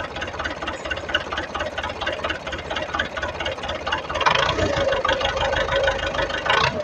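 Diesel tractor engine running at idle with an even chugging beat, louder for the last few seconds, then shut off at the end, its sound dying away.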